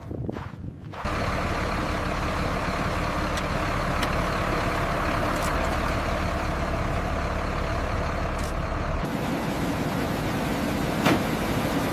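A heavy engine starts running steadily about a second in. About nine seconds in the sound changes abruptly: the deep rumble drops away and a higher hum remains. There is a single sharp click near the end.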